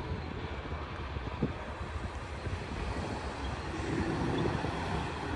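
Freight train cars rolling past, a steady rumble and rail noise, with wind buffeting the microphone. A low hum grows slightly louder toward the end.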